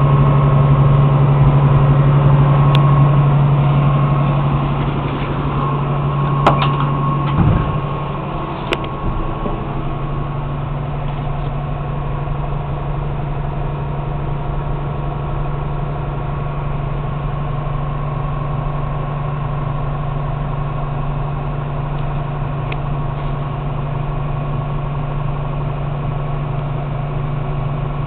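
Ford F500's 300 cubic-inch straight-six engine running at idle. It is louder for the first seven seconds or so, then settles to a steadier, quieter idle, with a few sharp clicks around the change.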